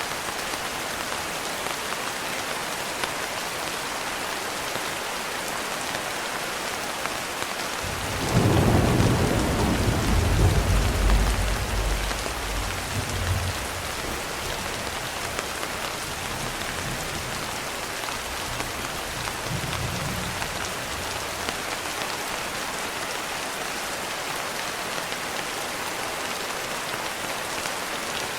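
Steady rain with a roll of thunder: about eight seconds in a deep rumble swells up, is loudest for a few seconds, then fades in lighter rumbles while the rain keeps on.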